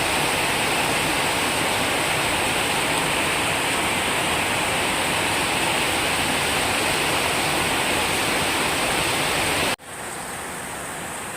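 Very heavy rain pouring down steadily with no wind, a dense even hiss. Near the end the level drops suddenly to a quieter rain sound.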